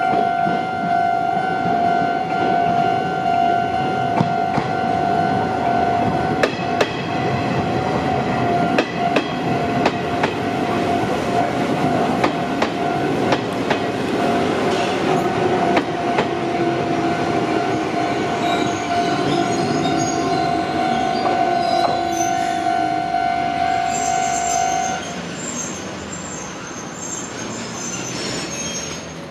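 Japanese level-crossing alarm ringing steadily while an electric commuter train runs over the crossing, its wheels clicking over the rail joints. The train's motor whine falls slowly in pitch partway through. The alarm stops about 25 seconds in, and high wheel squeal carries on near the end.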